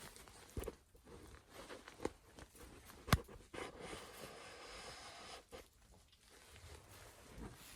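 Faint shuffling footsteps and rustling handling noises, with one sharp click about three seconds in.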